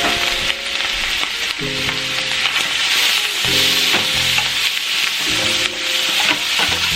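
Butter sizzling steadily in a frying pan as pre-cooked lobster meat is tossed and stirred in it, with background music recurring about every two seconds.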